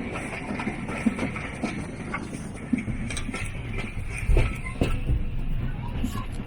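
Heritage railway carriage riding behind a steam locomotive, heard from inside: a steady low rumble with scattered knocks and clatter, growing louder about four seconds in.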